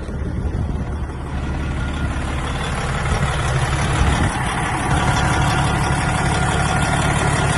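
Heavy diesel engine of a 1999 Western Star 4900 truck tractor running. It grows louder and fuller over the first four seconds or so, then holds steady.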